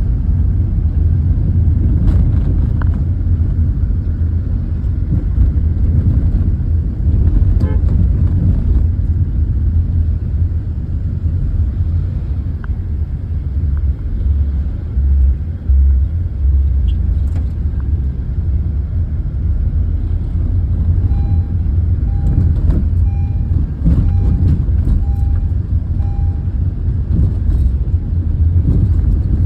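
Tractor engines running steadily with a deep, continuous rumble. A short run of faint repeated beeps comes about two-thirds of the way through.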